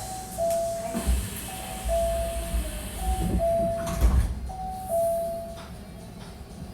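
Door-closing chime on a Hankyu 1300 series train: a two-note falling chime, repeated four times. Under it the sliding doors close with heavy low thumps, the loudest about four seconds in.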